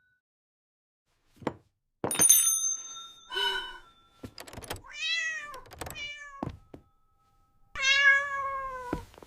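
A cat meowing: a short meow that rises and falls about five seconds in, and a longer meow that falls slightly near the end. Before them come a few sharp knocks and a brief high ringing tone.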